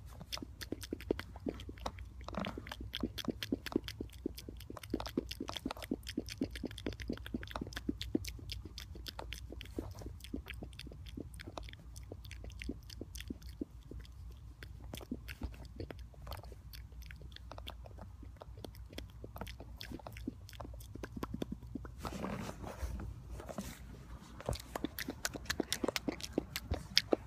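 Mouth noises made close to the microphone: rapid, wet clicks and smacks, several a second. A fuller, breathier stretch comes in about 22 seconds in, and the clicks grow louder near the end.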